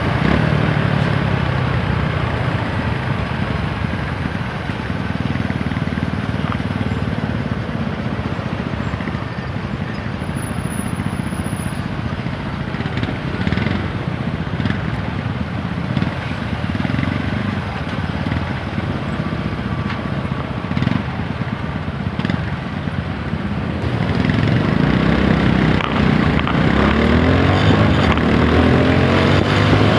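TVS Apache 160 4V's single-cylinder engine running on the move, with wind and road noise. About 24 seconds in it gets louder and the engine note climbs as the bike accelerates.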